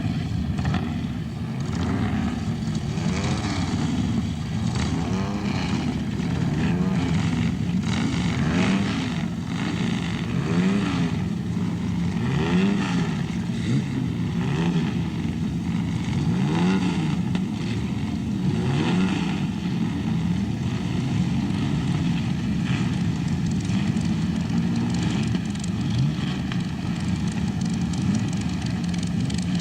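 Racing sports car engines running hard, their pitch rising and falling again and again as they rev up and pass by.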